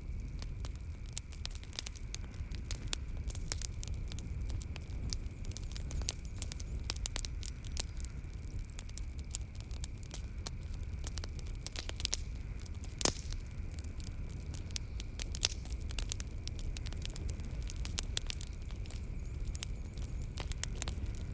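Wood fire burning in a fireplace, crackling with a dense run of sharp pops and snaps over a low rumble of the flames, the loudest pops about 13 and 15 seconds in.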